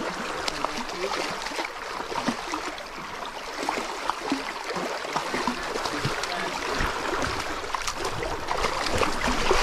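Fast-flowing creek water rushing steadily, with scattered small splashes and gurgles. A few low thumps come in near the end.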